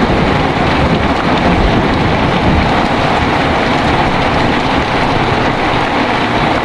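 Heavy rain pouring steadily, with a low rumble of thunder dying away over the first few seconds.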